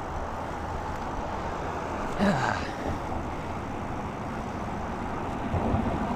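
Steady rushing wind and tyre noise from a bicycle being ridden, picked up by a clip-on mic, with a short falling tone a little over two seconds in.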